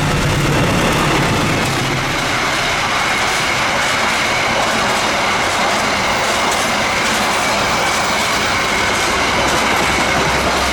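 Long-distance train passing close by: a low engine hum fades in the first couple of seconds, then the steady rolling noise of the carriages going past, with the clickety-clack of wheels over the rail joints and a faint high wheel squeal.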